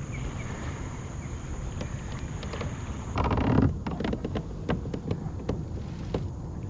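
Wind rumbling on the microphone. About three seconds in there is a short loud rustling burst, followed by a scatter of sharp clicks and knocks from gear being handled.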